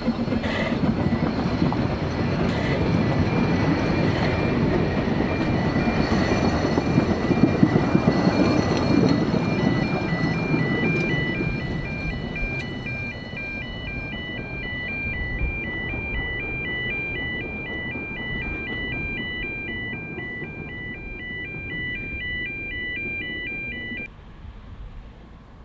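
Narrow-gauge steam train, headed by the Hunslet 2-6-2T Russell, rumbling past over a level crossing and fading as it draws away. The crossing's warning alarm sounds a steady two-tone warble that grows more prominent as the train noise dies down, then stops abruptly near the end.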